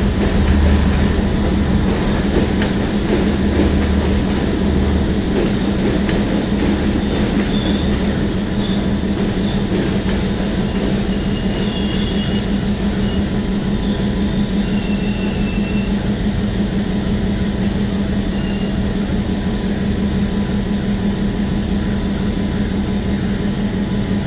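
Diesel passenger train moving slowly through a station: a steady engine hum runs throughout, with a heavy pulsing low rumble in the first few seconds that then eases. Several short, high wheel squeals come in the middle.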